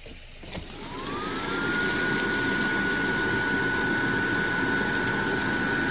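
Electric blower fan of an air-blown Christmas inflatable switched on with a click, spinning up with a rising whine over about a second, then running steadily with a constant whine over a rush of air.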